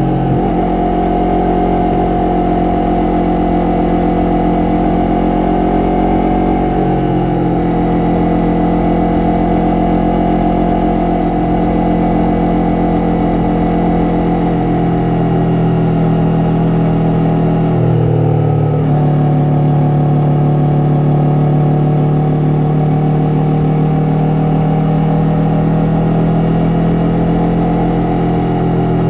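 Yamaha MT-03's parallel-twin engine and exhaust running under way, holding fairly steady revs, with a break in pitch like a gear change about 7 seconds in and again about 18 seconds in.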